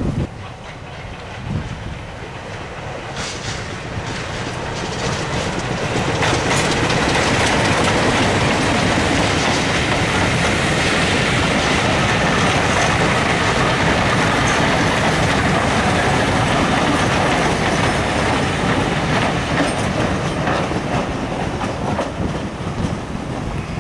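A passenger train's coaches rolling past close by, their steel wheels running over the rail joints. The sound builds over the first several seconds, holds steady, then eases off near the end.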